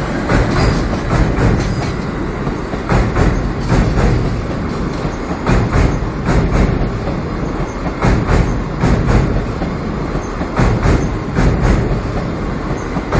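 New JR East E657 series cars hauled past on a delivery run: a continuous loud rumble of steel wheels on rail, with repeated sharp clacks in short groups as each bogie's wheelsets cross the rail joints.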